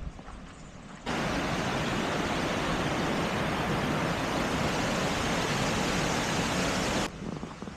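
Loud, steady rush of falling or fast-flowing water, an even hiss that cuts in abruptly about a second in and cuts off abruptly near the end.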